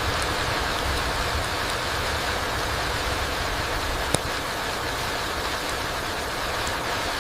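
Steady rain falling through trees onto a mossy forest floor, an even hiss with a low rumble underneath. A single sharp drip sounds about four seconds in.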